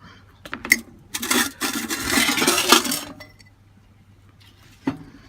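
Small metal parts handled on a workbench: a sharp clink about a second in, then about two seconds of clattering and scraping, and another clink near the end.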